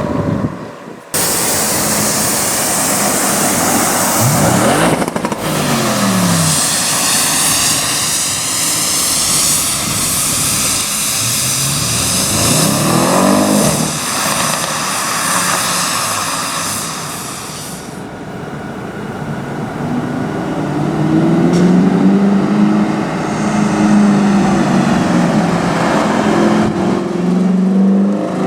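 Audi RS6 cars accelerating away one after another, each engine note rising then falling as the car goes by, over a loud rushing noise. In the last third a deeper engine note climbs and holds.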